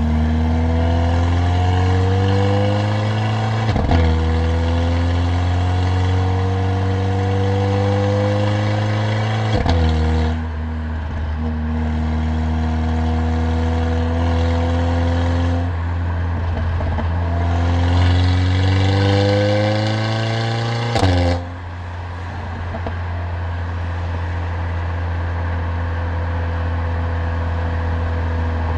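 Mercedes-AMG CLA45's turbocharged four-cylinder engine and exhaust pulling hard through the gears: the pitch climbs and drops at each upshift, about a second and a half apart at first and again later. A loud sharp crack comes near the end of a pull, after which the engine settles into a steady lower drone while cruising.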